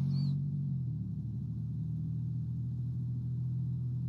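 Car engine running at a steady cruise, a low even drone, with a brief high chirp at the very start.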